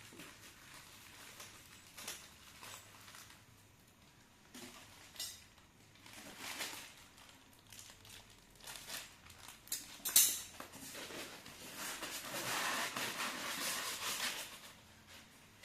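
Hands unpacking a hanging lamp: scattered clicks and light clinks of hard parts with rustling of packaging. There is one sharp click about ten seconds in, then a longer stretch of rustling.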